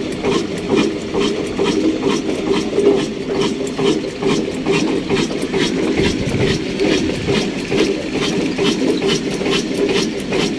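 Old 22/24 HP, 300 RPM stationary diesel oil engine running steadily, a continuous even clatter of rhythmic knocks.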